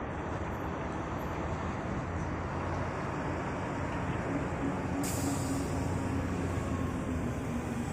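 Heavy diesel machinery engine running steadily, with a brief hiss starting about five seconds in.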